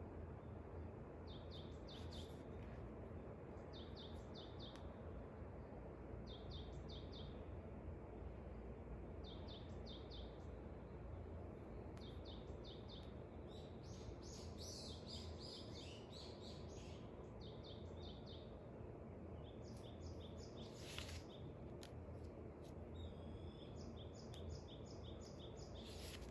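Songbirds calling at dawn: short bursts of quick high chirps repeating every couple of seconds, a busier tangle of calls in the middle and a run of repeated notes near the end, over a steady low background hiss.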